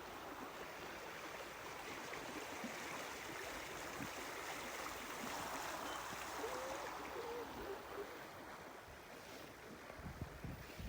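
Steady, faint rush of water, an even hiss that swells slightly midway.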